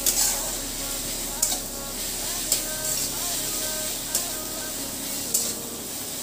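Onions with ginger and garlic paste sizzling in hot mustard oil in a kadai, with a steady frying hiss. A spatula stirring the mixture knocks and scrapes against the pan about five times.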